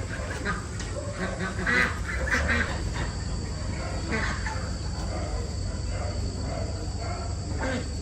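Farm birds calling in short bursts, four or five times, over a steady low hum and a steady high hiss.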